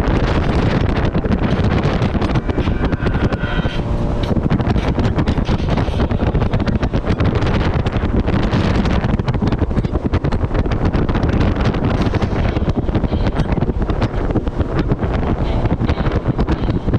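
Heavy wind buffeting on the microphone of a moving jet ski, over the steady running of the watercraft's engine.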